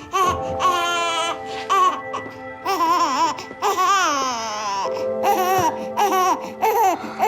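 A newborn baby crying in a string of short, wavering wails over background music with long held notes.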